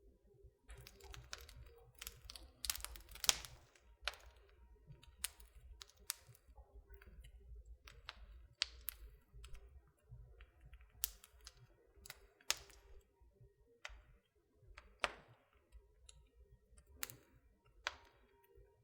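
Wood fire in a fireplace crackling: irregular sharp pops and snaps, a few louder ones, over a low rumble.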